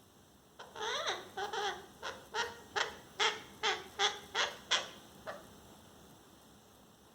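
Pet parrot calling: about a dozen short, repeated squawks at roughly two to three a second, the first one longer, ending with a weaker call.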